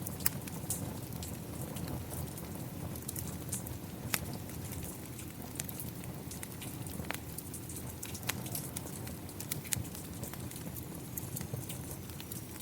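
Rain with a wood fire burning: a steady low rush of rain, dotted with frequent sharp, irregular crackles and pops from the fire.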